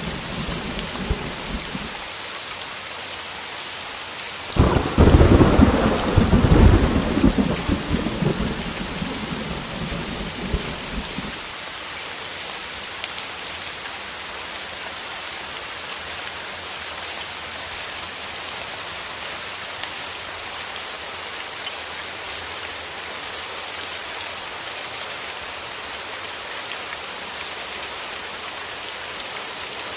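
Heavy rain falling steadily. A thunder clap breaks in about four and a half seconds in and rumbles away over the next several seconds, after the tail of an earlier rumble fades in the first two seconds.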